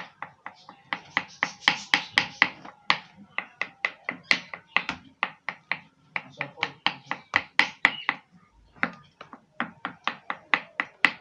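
Kitchen knife chopping boiled egg white on a cutting board: quick, regular knocks of about five strokes a second, with a couple of brief pauses, mincing the egg very fine.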